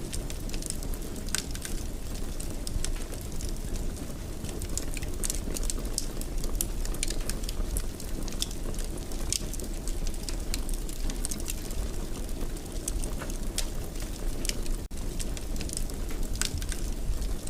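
Wood fire in a fireplace crackling, with frequent irregular sharp pops over a steady low rumble of flames. A very short break in the sound comes near the end.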